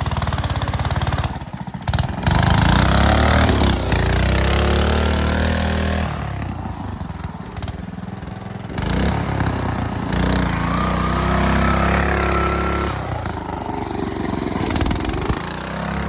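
Sears garden tractor's engine working hard in deep mud, revving up and easing off several times as it pushes for traction.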